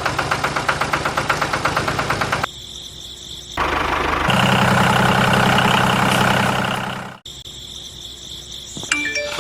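A small engine runs with a quick, even chugging. It cuts off abruptly about two and a half seconds in, and a second, steadier motor hum starts about a second later and fades out before the end.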